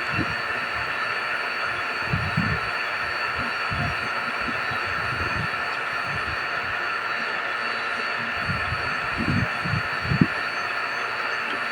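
Refrigeration vacuum pump running steadily, evacuating the mini-split's lines after a compressor replacement, with a constant high whine over the running noise. Irregular low thumps come and go, loudest near the end.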